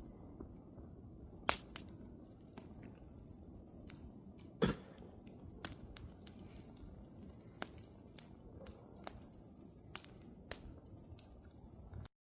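Wood campfire crackling: scattered sharp pops and snaps over a low steady rush, with two louder pops, one about a second and a half in and one near five seconds in. The sound cuts off abruptly just before the end.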